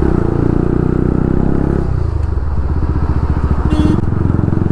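Bajaj Pulsar RS 200's single-cylinder engine running under throttle in traffic, then dropping to a lower, throbbing putter as the throttle is closed about two seconds in. A short beep, like a vehicle horn, sounds near the end.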